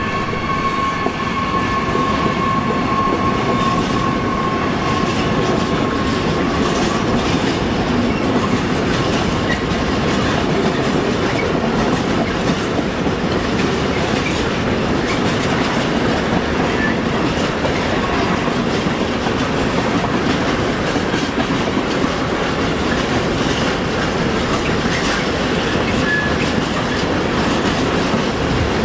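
A train passing close by, its wheels clattering over the rail joints in a steady rumble. A high steady whine is heard in the first several seconds and fades away.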